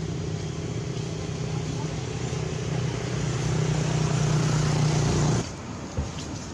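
A motor vehicle engine running with a steady hum that grows louder over a couple of seconds, then cuts off abruptly about five seconds in. A single knock follows shortly after.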